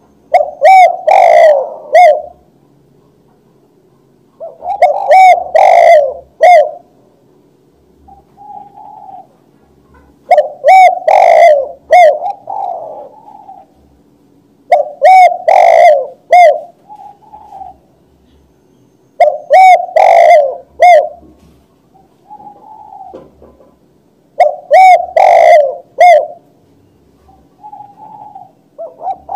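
Spotted dove (tekukur) cooing: a loud, close phrase of several coos repeated about every five seconds, with a softer single coo between most phrases.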